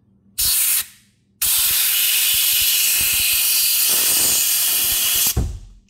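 Compressed air hissing from a blowgun nozzle jammed under a cover to blow it off: a short blast, then a long steady one of about four seconds that cuts off sharply. The cover does not budge.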